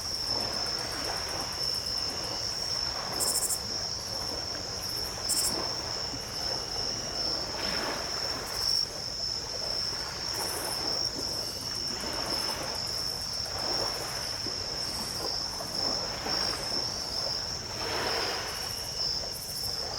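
Small ocean waves breaking and washing ashore in soft rushes every few seconds, under a steady high-pitched insect trill at night.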